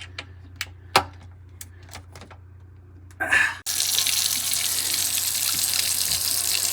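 A few light clicks and knocks, then about three and a half seconds in a kitchen faucet is turned on and water runs steadily into the sink, testing the under-sink garbage disposal connection for leaks.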